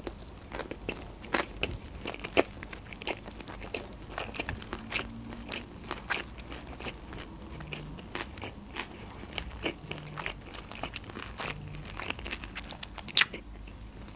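A person chewing a mouthful of sushi roll close to the microphone: irregular wet mouth clicks and soft crunches, with one sharper click about a second before the end.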